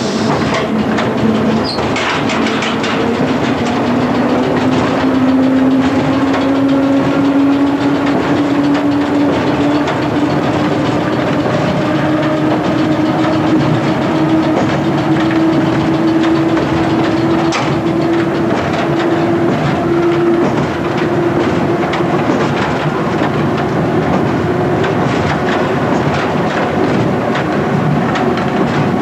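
1927 Standard stock electric tube train running, heard from the cab, its motor whine rising slowly and steadily in pitch as it gathers speed before levelling off near the end. The wheels click now and then over rail joints.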